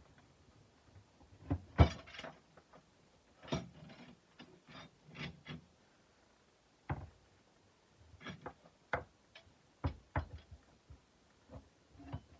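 Irregular knocks and clicks, a dozen or so at uneven spacing, some drawn out into short scrapes: hard objects being handled and set down on a hard surface. The sharpest knock comes a little under two seconds in.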